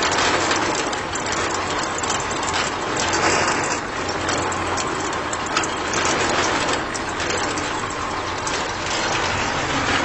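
Small electric motor driving a miniature homemade concrete mixer, its drum turning a load of wet concrete. It runs steadily with a constant rattle and frequent small clicks.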